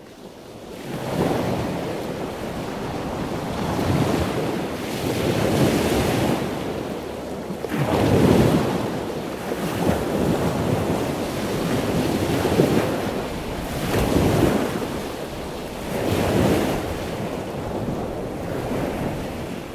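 Seaside ambience: water washing and wind on the microphone, a rushing noise that swells and fades every couple of seconds.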